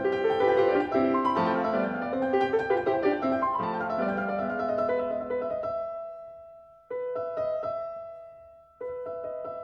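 Background solo piano music playing a slow melody. It fades away about six seconds in, then comes back abruptly twice with held chords.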